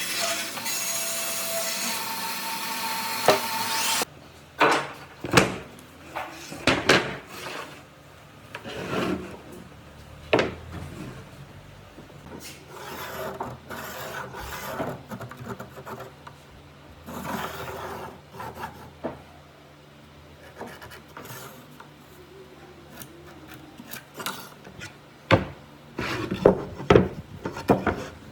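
A power tool runs loudly for about the first four seconds and cuts off suddenly. After that, wood is rubbed and scraped by hand in irregular strokes, with scattered sharp knocks.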